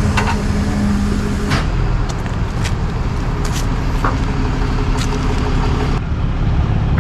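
Tow truck engine running steadily, a low rumble with a steady hum and a few scattered clicks.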